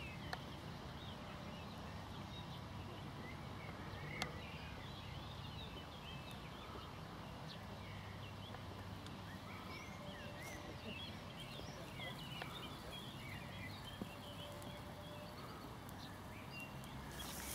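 Faint bird chirps, many short rising and falling calls, over a steady low hum, with a single sharp click about four seconds in.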